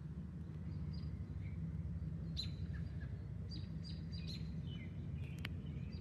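Birds chirping in short, high calls, scattered through the middle, over a steady low rumble.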